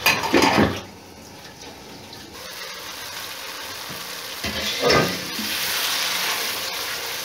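Chicken karahi masala sizzling and frying down on high heat in a karahi pan. There are a few knocks of a glass lid and spoon against the pan at the start and another knock about five seconds in. The sizzle is louder near the end, as a wooden spoon stirs the thick curry.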